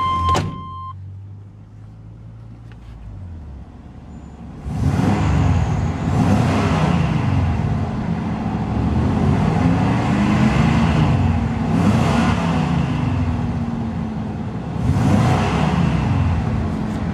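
A warning buzzer's steady tone cuts off just under a second in. About four and a half seconds in, a 1998 Chevrolet Silverado 3500's 7.4-litre Vortec (454) big-block V8 starts and is revved several times, its pitch rising and falling between revs, with another rev near the end; a heavy, hefty engine sound.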